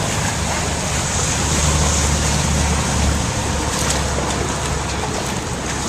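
A motor runs steadily under a constant rushing hiss, with a low drone that holds without change.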